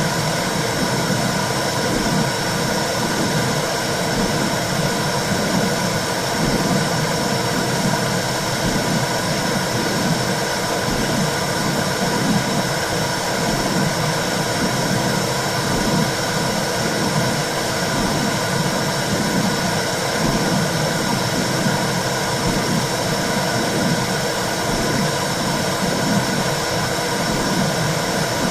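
Womb-sound track for soothing a baby: a steady whooshing rumble with a slow, rhythmic heartbeat-like pulse in the low range.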